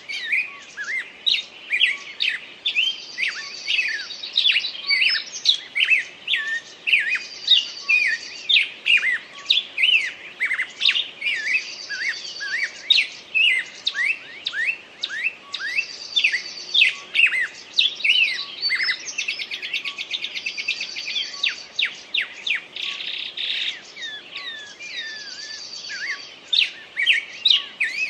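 Several songbirds singing at once, with rapid chirps and sweeping notes overlapping without pause. One bird's trilled phrase repeats every three to four seconds.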